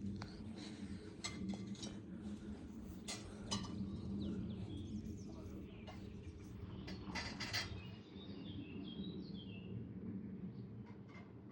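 Small birds chirping and twittering over a steady low rumble, with a quick run of short falling chirps about eight seconds in.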